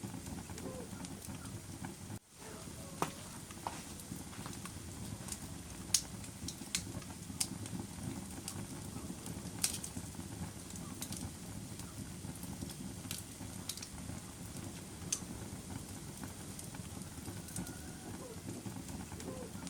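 Wood fire burning in a fireplace: a steady low rumble of flames with irregular sharp crackles and pops from the burning logs. The loudest pops come about six and ten seconds in. The sound drops out for an instant just after two seconds.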